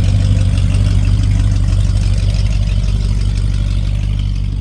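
Truck engine idling close by, a loud, steady low-pitched running sound that eases slightly near the end.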